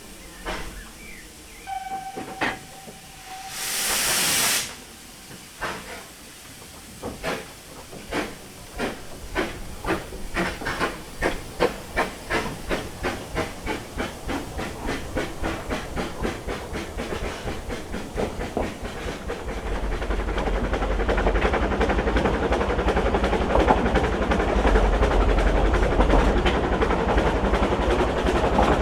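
Narrow-gauge steam locomotive pulling away: a loud burst of steam hiss, then exhaust chuffs that start slow and speed up into a fast, even beat. In the last third the beats merge into a steady running rumble as the train gathers speed.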